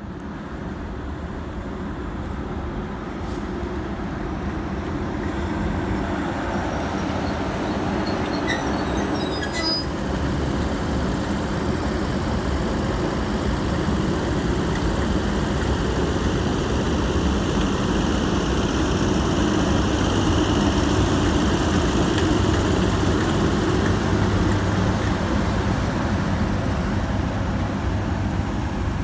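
Class 90 electric locomotive hauling passenger coaches past, the rumble of its wheels on the rails growing steadily louder as it draws near, with a steady low hum in the second half.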